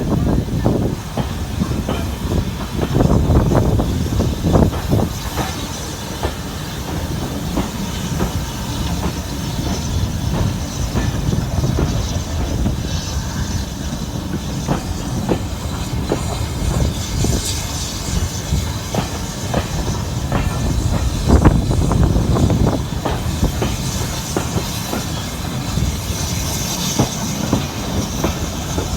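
Heritage steam-hauled passenger train running on the rails, heard on board: a steady low rumble with irregular clickety-clack knocks from the wheels over rail joints, and a brief squeal or hiss now and then.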